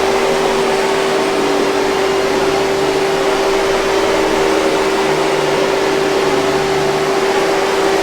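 Hoover 5000 Series canister vacuum cleaner running steadily: an even rush of air with a constant hum.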